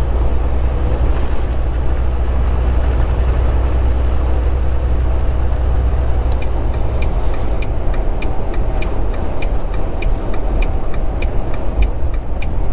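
Volvo 780 semi truck heard from inside the cab, its engine and road rumble heavy at first and easing off about halfway as the truck slows. From then on a turn signal clicks steadily, about three ticks a second.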